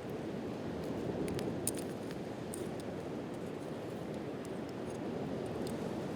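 Wood fire crackling with scattered sharp pops over a steady rush of sea surf.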